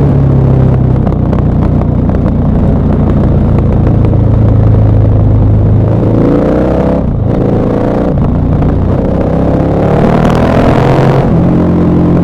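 KTM 1190 Adventure R's LC8 V-twin engine running under way. It holds a steady pitch, then revs climb about halfway through, dip briefly and climb again for a few seconds, before dropping back to a steady lower pitch near the end.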